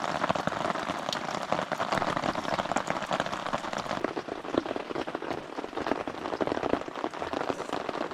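Steady rain falling on a tent and tarp, a dense run of individual drops tapping on the fabric.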